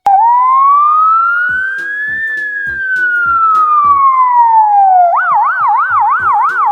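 Ambulance siren: one slow wail that rises for about two seconds and then falls, switching about five seconds in to a fast warbling yelp of about three cycles a second. Children's music with a steady beat plays underneath.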